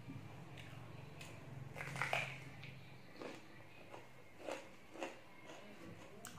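Crunching bite into a raw green bell pepper about two seconds in, followed by several shorter crisp crunches as it is chewed.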